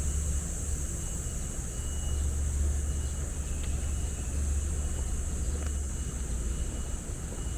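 City ambience: a steady low rumble of distant road traffic, with a constant high-pitched hiss over it and a few faint short chirps.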